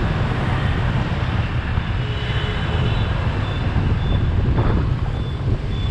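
Road noise from riding through city traffic: a steady low rumble of engine, tyres and wind on the microphone. A faint high beep repeats about every three-quarters of a second.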